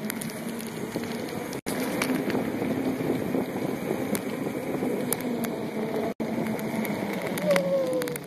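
Bicycle speeding downhill on a trail: steady wind and tyre noise picked up by a handheld camera, with scattered clicks and rattles. The sound cuts out briefly twice.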